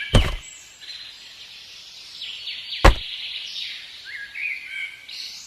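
Birds chirping and twittering, with two sharp knocks: one right at the start and a louder one about three seconds in.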